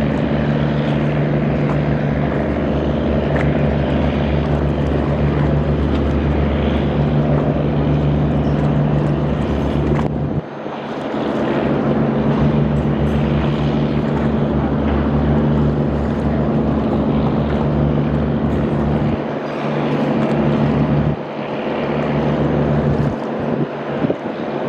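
Boat engine running steadily on a river, with a low hum under the noise of water and wind. The low hum drops away briefly about ten seconds in and a few times near the end.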